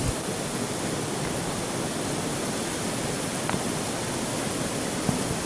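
Steady rushing of river water, an even noise with no change, with a couple of faint clicks about three and a half and five seconds in.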